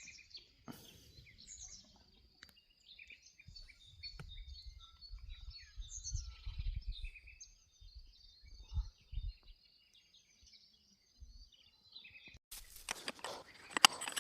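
Songbirds chirping and calling, many short high chirps and whistles over a faint steady high tone, with low rumbles in the middle. About 12.5 s in, this gives way abruptly to a loud crackling noise with sharp clicks.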